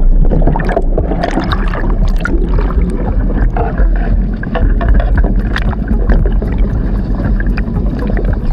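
Wind buffeting the microphone with a heavy rumble while water splashes and slaps against the hull of a sailing dinghy under way, in many short irregular strikes.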